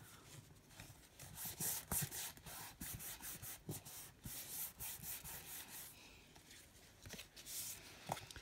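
Paper and card being handled and rubbed against a desk: a run of short, irregular brushing and scraping strokes with a few light knocks.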